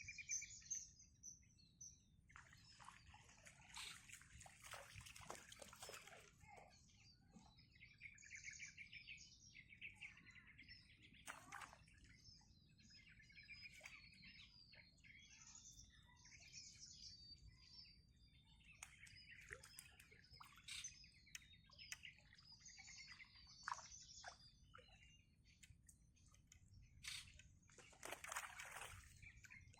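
Faint birdsong: small birds chirping and trilling over and over, with a louder burst of calls near the end.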